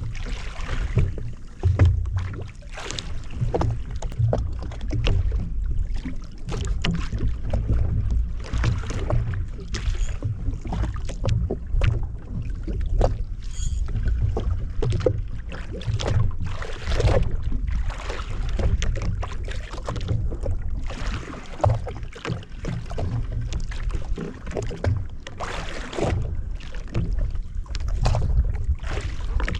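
Jet ski on open sea: an uneven low rumble with irregular splashes and slaps of water against the hull.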